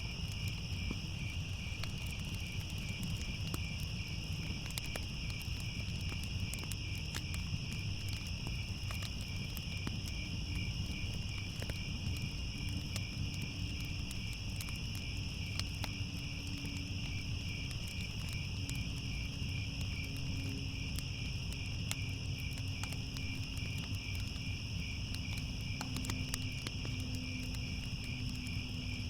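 Crickets chirring without a break in a fast, even pulse, over a low steady rumble with faint scattered crackles.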